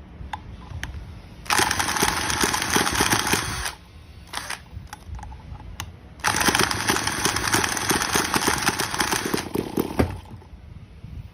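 Transverse V-twin engine running in two bursts, the first about two seconds long and the second about four, with a fast ticking rattle; it drops back to a few faint clicks between and after the bursts.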